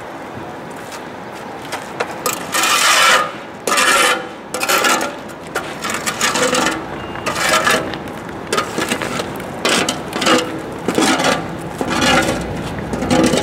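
Repeated rough scraping strokes, roughly one a second, starting about two seconds in, like wood or debris being dragged or scraped.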